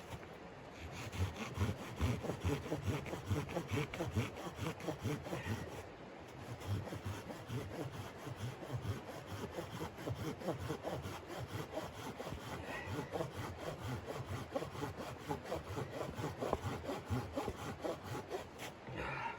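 Hand saw cutting through wood, likely firewood for the tent stove, in quick, even back-and-forth strokes with a brief pause about six seconds in.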